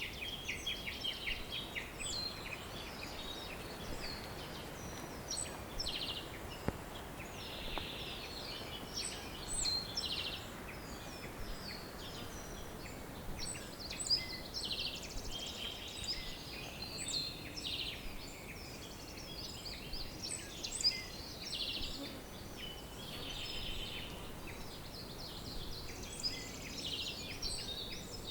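Several songbirds calling and singing together, with overlapping chirps, rapid trills and slurred whistled notes throughout, over a faint steady background hiss.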